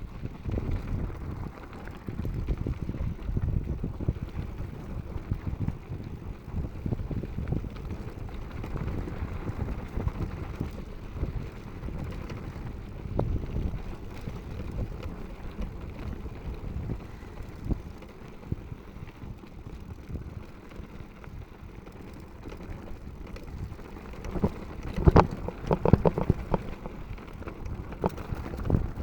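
Mountain bike riding down a rough dirt trail: a continuous low rumble of tyres on the ground with rapid clattering knocks from the bike over rocks and roots, and wind buffeting the microphone. A louder flurry of knocks comes near the end.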